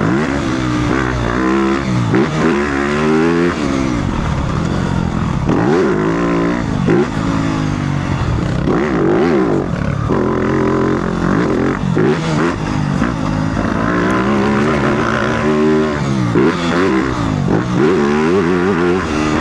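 Motocross bike's engine revving up and dropping back over and over as it is ridden hard through the track's jumps and corners, heard from a microphone inside the rider's helmet chin guard.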